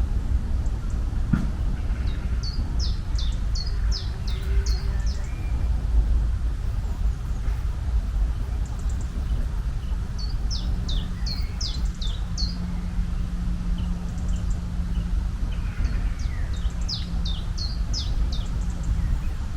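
A small bird singing three short phrases of quick, steeply falling high chirps, over a steady low rumble.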